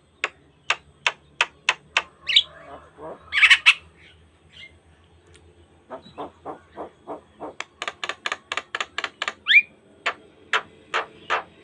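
Javan myna (jalak kebo) calling in rapid series of short, sharp notes, about three a second, broken by a few loud slurred whistles and squawks. After a pause of about two seconds the notes return and quicken to about five a second, with another whistle near the end.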